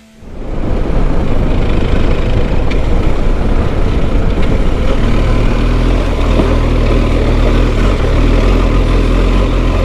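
BMW R1250 GS Adventure's boxer-twin engine running steadily as the motorcycle rides along a gravel and dirt track, with a steady low rumble; the sound fades in within the first second.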